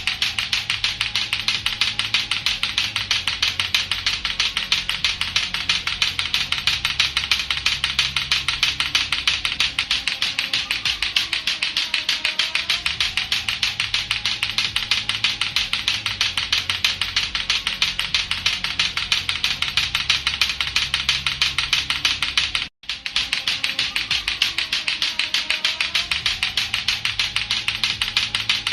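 Latto-latto clacker toy, two hard plastic balls on a string knocking together in a rapid, unbroken run of sharp clacks. A faint low background comes and goes beneath it, and the clacking cuts out for an instant about 23 seconds in.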